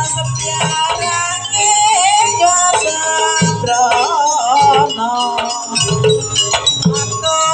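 Live Jaranan Buto accompaniment music: drums and struck metal percussion keep a steady rhythm under a wavering, ornamented melody line.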